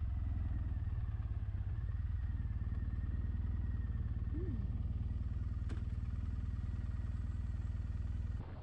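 Triumph Bonneville SE's 865 cc parallel-twin engine running steadily.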